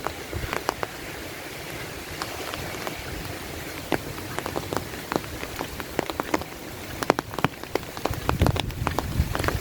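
Steady rain falling, an even hiss with many separate heavy drops ticking close by. A low rumble comes in near the end.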